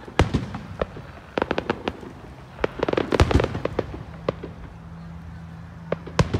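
Aerial fireworks bursting overhead: a series of sharp bangs, with two dense runs of rapid crackling reports, one about a second and a half in and a longer one about three seconds in, then single bangs spaced out toward the end.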